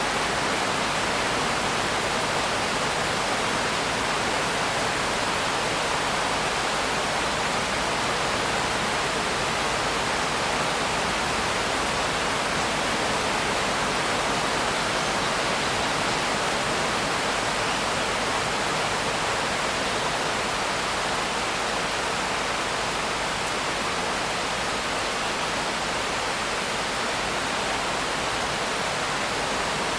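Steady rain, an even unbroken hiss with no single drops, thunder or other sounds standing out.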